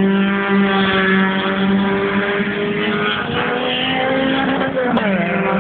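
Engines of older saloon cars running hard on a race circuit: one steady, loud engine note. It drops sharply in pitch about five seconds in, then holds steady again.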